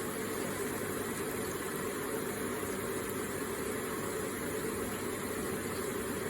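Electric water feature with water running and splashing in a steady, unbroken stream.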